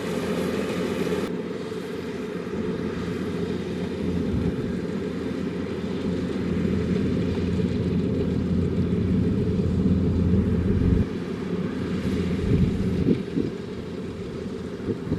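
Kubota DC-105X rice combine harvester running steadily: a continuous low engine and machinery drone. The upper hiss drops away about a second in.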